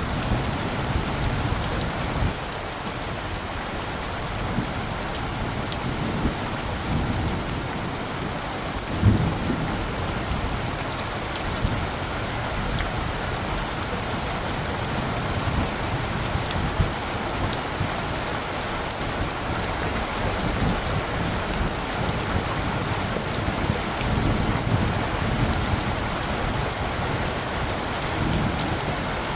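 Steady rain falling, with fine drop ticks, and light thunder rumbling low now and then; a short louder low thump about nine seconds in.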